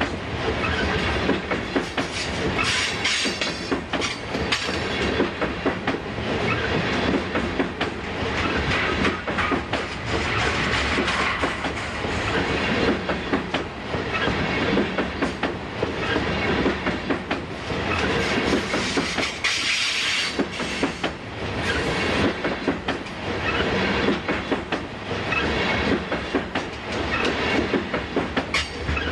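Loaded coal hopper cars of a heavy freight train rolling past close by: steel wheels rumbling and clattering on the rails, with a repeating beat as each car's wheel sets go by.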